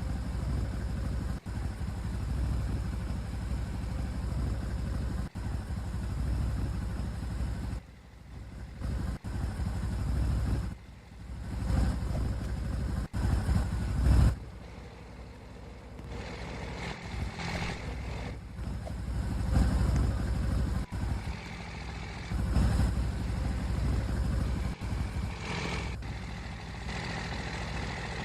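A vehicle engine running, its sound dipping briefly a couple of times and rising and falling in level.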